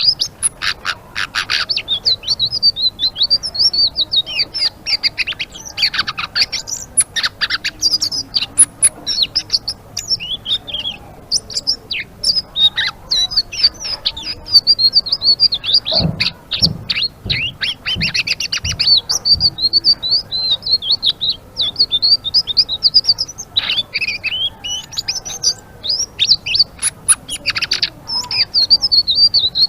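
A selendang biru songbird singing a long, rapid run of high twittering chirps and short falling notes, with hardly a pause. A few low thumps come about halfway through.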